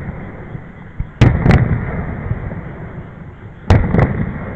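Aerial firework shells bursting overhead: two pairs of sharp bangs, the first about a second in and the second near the end, each followed by a rumbling echo that dies away.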